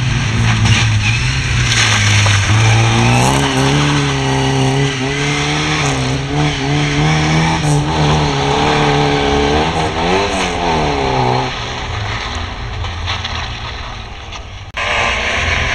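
A Lada saloon's four-cylinder engine revving hard on a slalom run, its pitch rising and falling again and again with gear changes and throttle lifts. It fades as the car pulls away. A sudden cut near the end brings in a louder engine.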